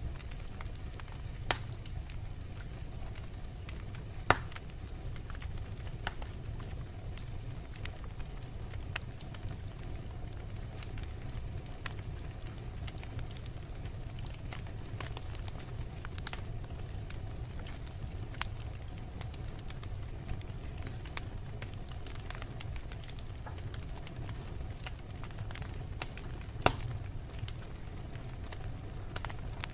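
Wood fire burning in a fireplace: a steady low rumble of flames with scattered crackling and three sharp, louder pops from the burning logs.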